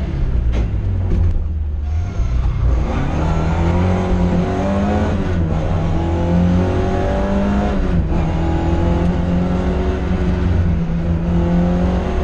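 Ford Escort RS2000 rally car's four-cylinder engine, heard from inside the cabin, driven hard at stage pace. The revs climb and drop repeatedly through gear changes, with a lift about two seconds in and shorter dips later.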